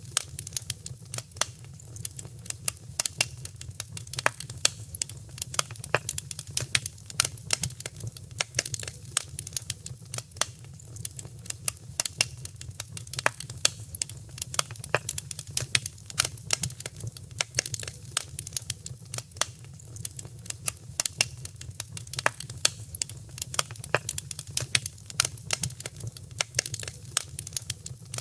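Wood fire crackling in a fireplace: dense, irregular sharp pops and snaps, several a second, over a steady low rumble of the flames.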